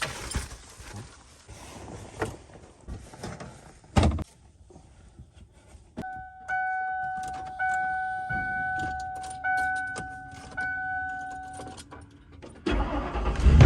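Keys jangling and small knocks in a vehicle, with one loud thump about four seconds in. Then a vehicle's electronic warning chime sounds as a run of long steady beeps for about six seconds. Music starts near the end.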